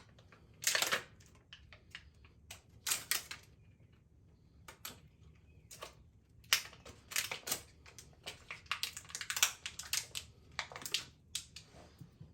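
Irregular sharp clicks and knocks, some single and some in quick clattering flurries, thickest in the second half.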